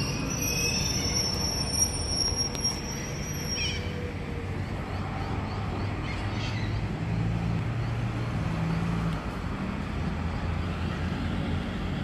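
X'Trapolis electric train with a high-pitched squeal over the first few seconds that cuts off suddenly, then a low, steady rumble.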